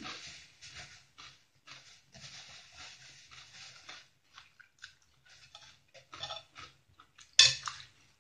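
Close-up, wet crunchy chewing of raw cabbage and shredded chayote salad, in quick crackly bites that thin out after about four seconds. Near the end, a sharp metal clink as a spoon and fork are picked up off the plate.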